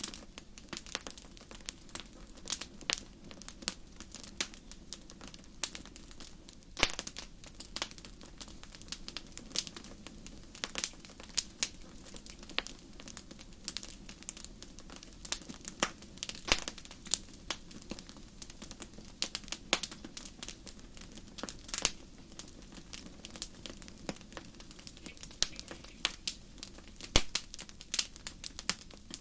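Wood fire crackling in a fireplace: irregular sharp pops and snaps, some much louder than others, over a soft steady low background.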